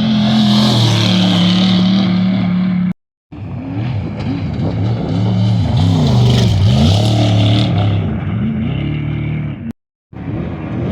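Off-road race vehicle engines running loud at speed, the engine pitch swinging up and down again and again as they rev. The sound breaks off briefly twice, about three seconds in and near the end.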